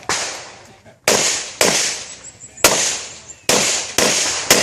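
Handgun shots fired in a practical-shooting (IPSC) stage: seven sharp reports at irregular intervals of about half a second to a second, each trailing off in a ringing echo.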